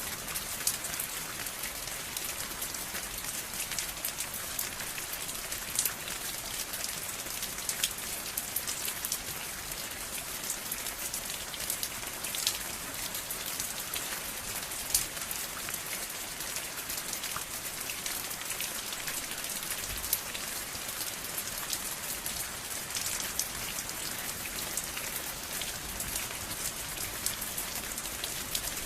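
Steady rain falling, with many close, sharp drops pattering on a surface.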